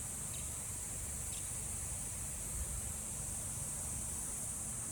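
Steady high-pitched chorus of insects, with a low rumble of wind on the microphone underneath.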